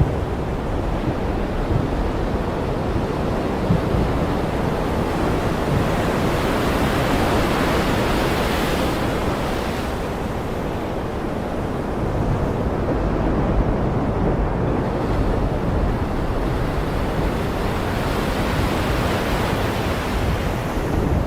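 Ocean surf: a continuous wash of breaking waves that swells and eases slowly, with surges about 8 seconds in, around 14 seconds and again near the end.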